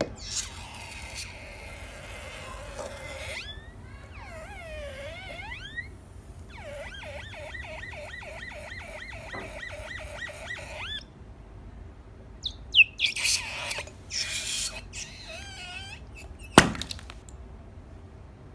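A rubber balloon squeaking with wavering high squeaks as it is rubbed and squeezed, including a quick rhythmic run of squeaks, with some loud rustling. Near the end comes one sharp pop, the balloon bursting under a pin.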